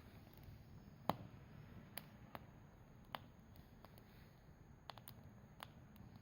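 Campfire burning pine cones and wood, giving off a few sharp, irregularly spaced crackles and pops over a faint hiss; the loudest pop comes about a second in.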